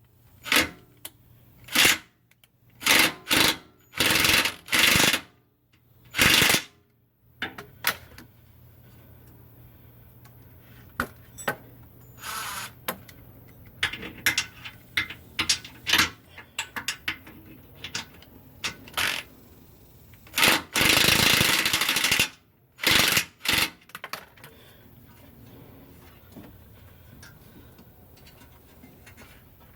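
A power tool rattling in repeated short bursts, stop and start, with the longest burst of about a second and a half around two-thirds of the way through.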